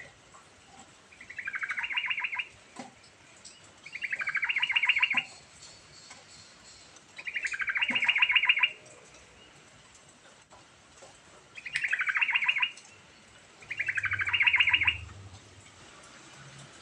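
Yellow-vented bulbul singing five short phrases, each a quick rolling run of rapidly repeated notes lasting about a second, with pauses of a couple of seconds between them.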